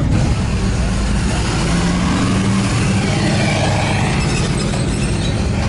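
A car engine running steadily, loud and close.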